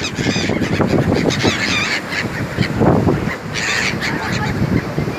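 Seagulls calling: about three bursts of harsh, wavering honking calls, near the start, about two seconds in and near four seconds, over a continuous low rushing noise.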